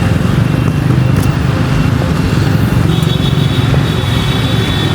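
Busy street traffic: cars and motorbikes running past in a steady wash of engine and road noise, with a faint high steady whine joining about three seconds in.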